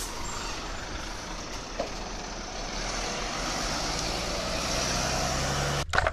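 Toy vehicle's electronic engine sound effect: a noisy truck-like rumble that grows louder and cuts off suddenly near the end.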